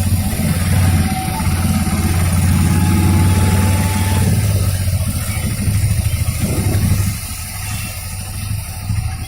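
A motor vehicle's engine running at idle with a steady low hum, becoming quieter about seven seconds in.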